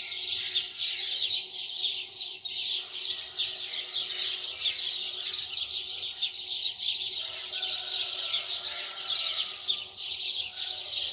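Many small birds chirping at once, a dense, unbroken chorus of short high chirps.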